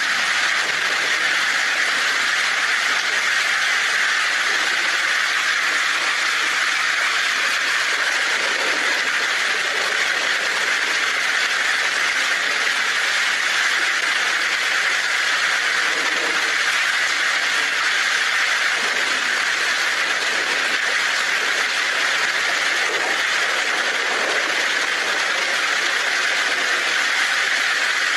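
Heavy rain falling on a tin roof: a dense, even hiss that holds steady throughout.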